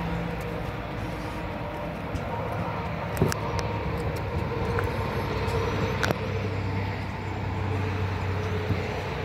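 A steady low rumble of a running motor vehicle engine, with a couple of short clicks about three and six seconds in.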